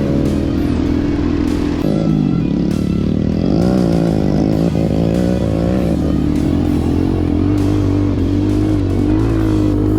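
Mini bike engine running, its revs rising and falling for a few seconds in the middle, mixed with rock music with guitar.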